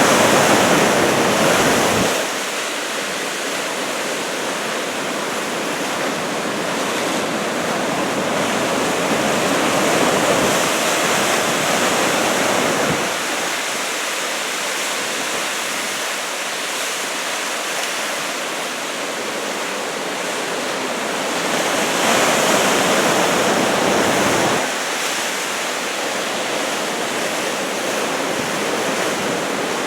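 Ocean surf breaking, driven by a typhoon swell of about 2 m: a continuous wash of waves that surges louder roughly every ten seconds.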